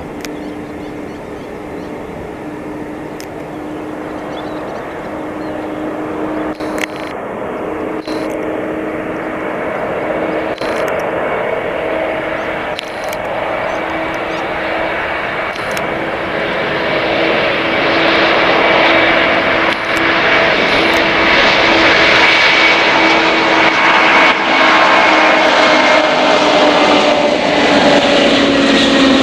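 Antonov An-124 Ruslan's four D-18T turbofan engines running, a steady jet hum with a whining tone that grows steadily louder as the aircraft comes closer. Its pitch sags slightly near the end as it passes.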